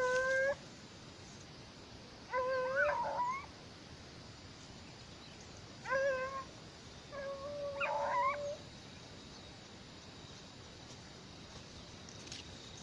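Hunting dog baying in four drawn-out, howling calls spaced a couple of seconds apart, the last one the longest.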